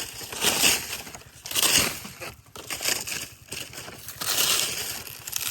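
Ground debris rustling and crunching in several short bursts as it is pushed about in a search by hand.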